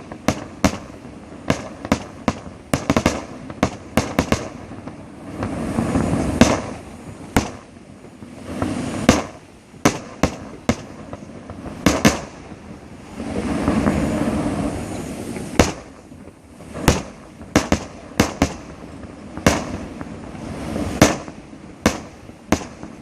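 Fireworks display going off: a rapid, irregular series of sharp bangs, sometimes several a second, with a few swells of continuous noise between the volleys.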